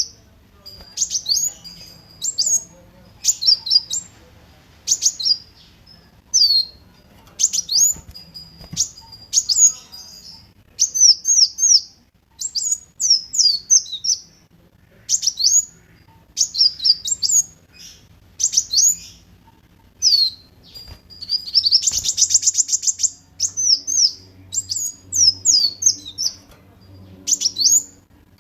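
Kolibri wulung sunbird singing: short bursts of high, quick down-sweeping chirps every second or two, with a fast buzzy trill about two-thirds of the way through.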